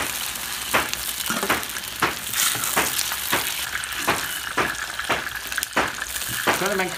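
Hot oil sizzling in a large wok as pieces of eel fry, with a metal spatula scraping and knocking against the wok about twice a second.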